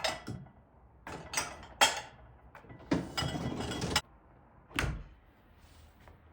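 Household handling noises: a series of sharp knocks and clunks, and about three seconds in a sliding scrape lasting about a second that stops abruptly, like a cabinet door or drawer being worked.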